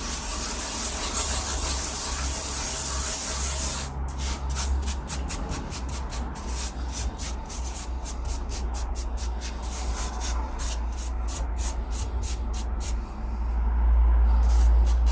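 A steady hiss, then a run of quick rasping strokes, about four a second, like a round file worked over chainsaw chain teeth. A low rumble underlies it and grows louder near the end.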